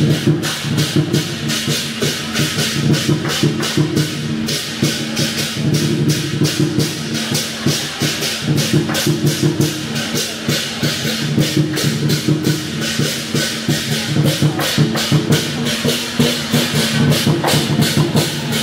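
Dragon-dance percussion music: drums and crashing cymbals beating a fast, driving rhythm of several strikes a second, over held low notes that come and go.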